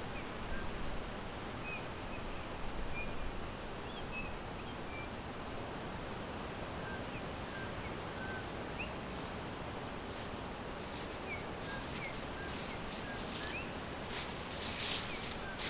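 Forest ambience: a steady background hiss with faint, scattered short bird chirps, and brief rustling near the end.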